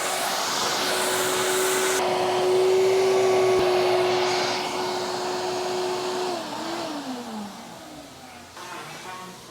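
Shop vacuum running with a steady whine, sucking debris out of the engine valley, then switched off about six seconds in, its motor winding down in pitch.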